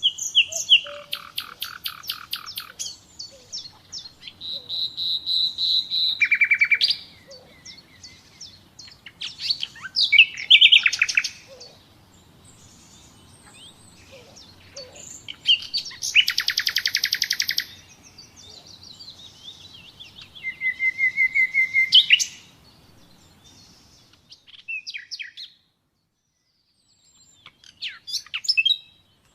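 Common nightingale singing: varied phrases of fast repeated notes, pure whistles and trills, broken by short pauses.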